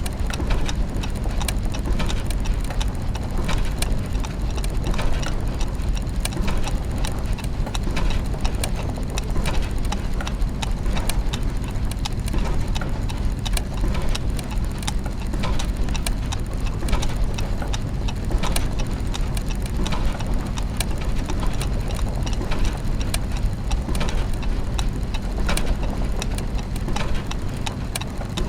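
Clockwork mechanisms and gears running together: a dense, steady clatter of many irregular ticks and clicks over a constant low hum.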